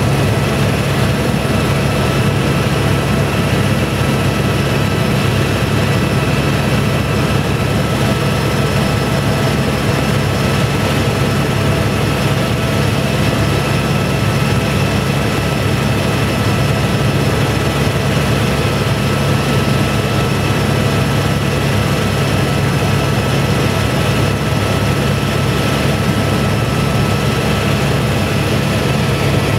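Helicopter in flight: engine and rotor noise, a loud steady drone with a few thin steady whines above it, unchanging throughout.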